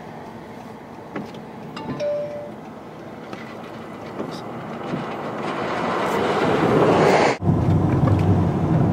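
Wind noise on the microphone, building up over a few seconds and cut off suddenly, followed by a louder, steady low rumble of wind or vehicle noise.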